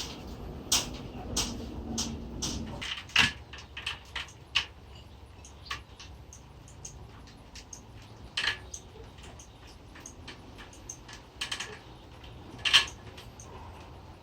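Low steady hum of the restored electric winch that stops about three seconds in, with irregular sharp clicks and metal knocks throughout, the loudest near the end.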